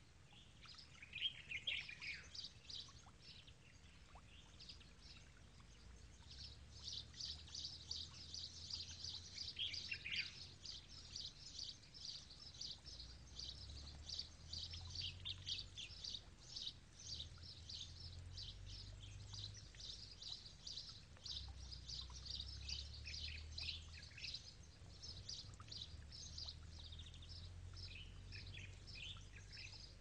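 Birds chirping: a dense run of short, high chirps that gets busier about six seconds in, with a few calls that slide downward, over a faint low rumble.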